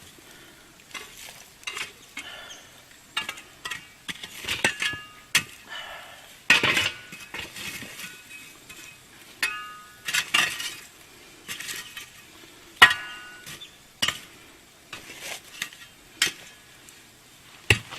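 Hot coals being heaped onto the lid of a cast-iron camp oven: a string of sharp metallic clinks and scrapes, some ringing briefly. The loudest strikes come about six and a half, ten and thirteen seconds in.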